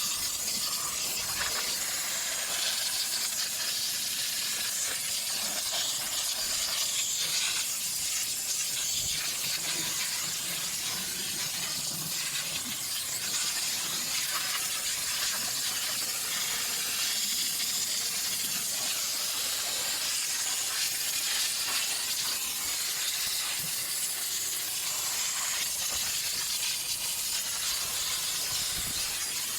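Steady hiss of a jet of steam from a steam cleaner being sprayed over a car engine.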